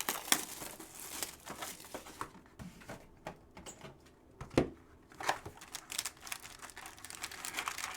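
Packs of Panini Chronicles football trading cards being torn open by hand, the wrappers crinkling and crackling, with the sharpest crackle about halfway through.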